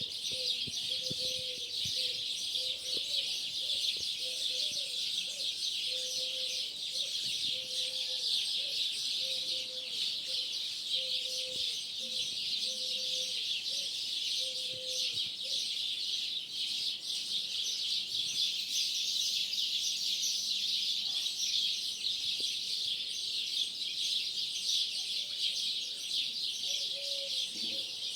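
A large flock of starlings chattering and whistling at dawn in one dense, unbroken din, the chorus they keep up until sunrise. A low note from another bird repeats about once a second through the first half and comes back near the end.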